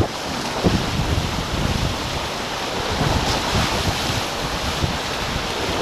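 Wind buffeting the microphone over a steady rush of water along the hulls of a racing beach catamaran sailing at speed.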